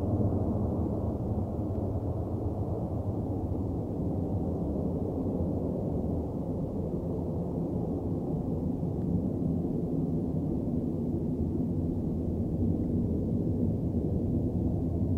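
Low, steady rumble of a distant Airbus A330-300's jet engines, its upper hiss slowly thinning out.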